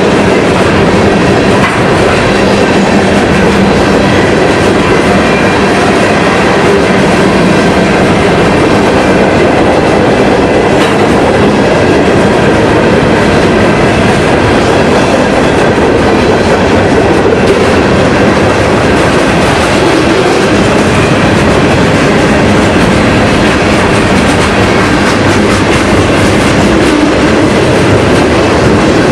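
Train rolling along the track: steady, loud running noise of wheels on rail that does not let up.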